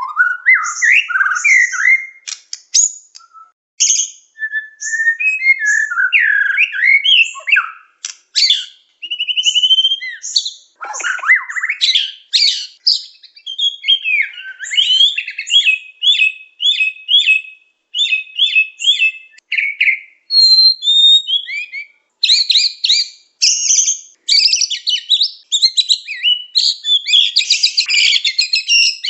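A murai songbird singing continuously in full voice, a long varied run of whistled phrases and gliding notes. About halfway through the song turns to quick repeated notes, then to a dense, fast chatter.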